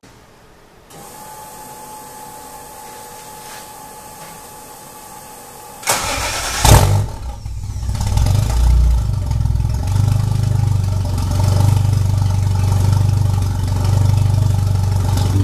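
Toyota 1JZ inline-six in the drift truck being started: after a faint steady hum, the starter cranks about six seconds in, the engine catches with a loud burst, and it settles into a steady idle through the new side-exit exhaust, a little uneven at first.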